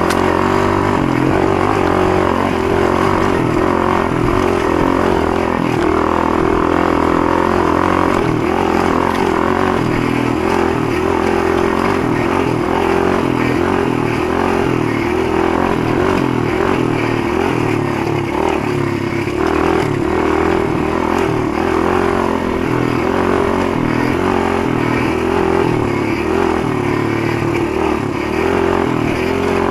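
Motoland GF125 pit bike's single-cylinder engine running steadily under way, loud and continuous, easing off slightly about two-thirds of the way through.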